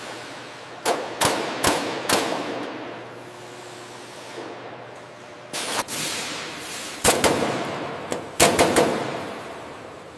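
Hammer blows ringing on metal in a large, echoing hall: about ten sharp strikes in irregular groups of two or three, each leaving a long reverberant tail.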